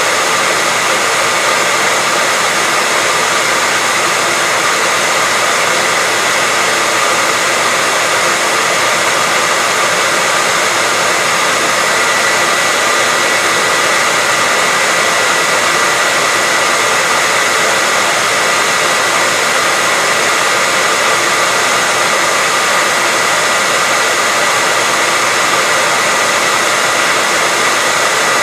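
Hair dryer running continuously, a steady airy rush with a faint whine in it, unchanging throughout.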